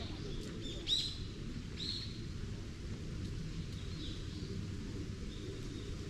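A bird calling several times with short, sharp chirps, the loudest about a second in and another near two seconds, fainter ones later, over a low steady background rumble.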